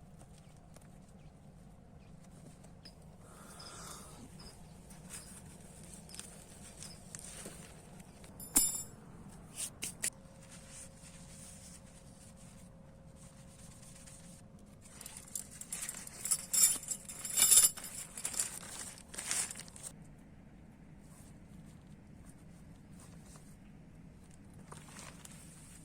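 Scattered sharp clicks and rustling over a faint steady background, with a busier few seconds of rustles and knocks just past the middle.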